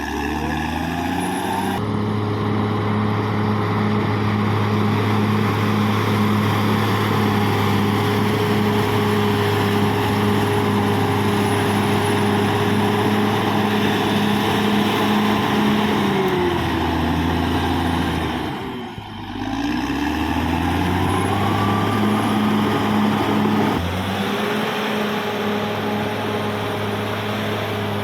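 Caterpillar D6R XL bulldozer's diesel engine running steadily under load. About two-thirds of the way through, its pitch falls away briefly and then climbs back up.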